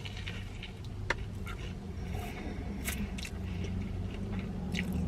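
Close-miked chewing of a battered mozzarella corn dog: soft wet mouth sounds and scattered small clicks and smacks, a sharper click about a second in. A low steady hum runs underneath.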